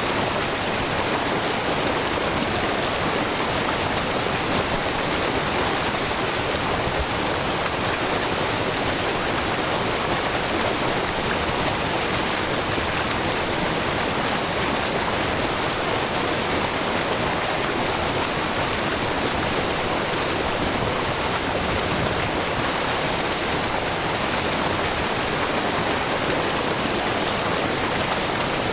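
Water falling and splashing at a wide, low waterfall, where spring water pours in many thin streams over a rock face. It rushes steadily and evenly, with no change in level.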